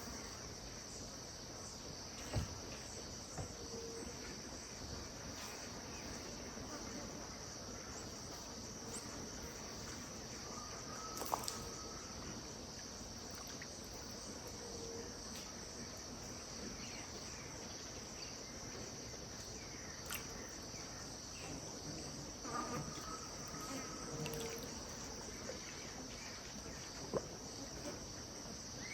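Steady chorus of insects, a continuous high-pitched buzz. A few faint short calls and scattered ticks come through it now and then.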